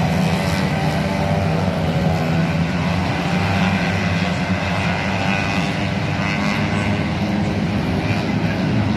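A 150 cc engine running steadily at a constant speed during a tune-up, a low, even hum with no revving.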